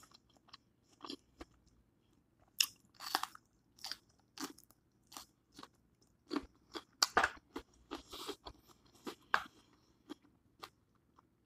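A person chewing close to the microphone, biting into and crunching a raw mini sweet pepper, in short, irregular crunches.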